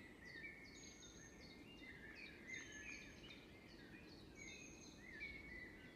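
Faint birdsong from several birds at once, with many short overlapping chirps and trills, over a low steady background rumble.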